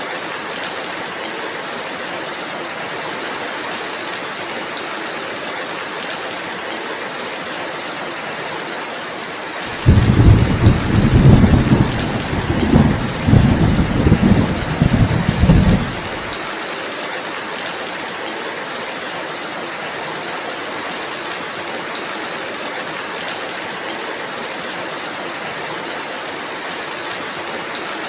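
Steady rain falling, with a loud, rolling rumble of thunder that breaks in suddenly about a third of the way through and lasts around six seconds before fading back to the rain.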